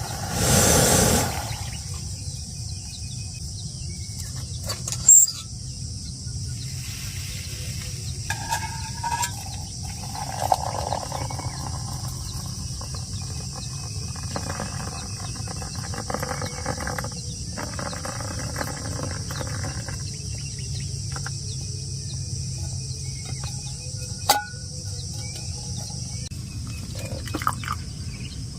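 Steady high-pitched insect chorus over a low background rumble, with a brief loud rustle at the start and a few sharp knocks.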